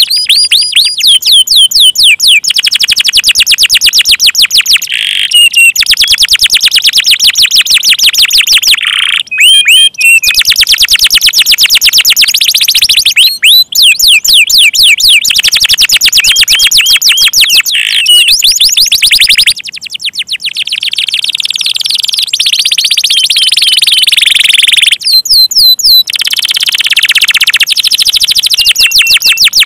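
Domestic canary singing loud, fast trills: long runs of rapidly repeated high notes that change speed and pitch from phrase to phrase, with brief breaks between some phrases.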